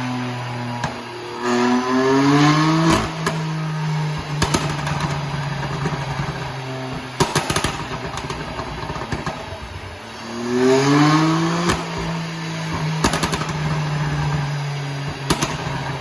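BMW M2 Competition's S55 twin-turbo inline-six, on a Stage 2 tune with catless downpipes, idling and then revved twice, about a second and a half in and again about ten seconds in. Each rev is followed by a string of sharp pops and crackles from the exhaust as the throttle closes.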